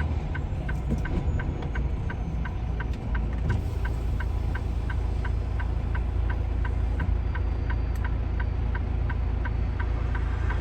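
Turn-signal flasher clicking steadily inside a semi-truck's cab, about three clicks a second, over the low steady rumble of the truck's diesel engine.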